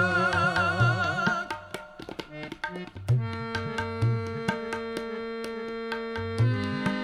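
Sikh devotional kirtan. A singer holds a wavering note that ends about a second and a half in. Then a harmonium plays a sustained chord, which shifts near the end, over steady tabla strokes.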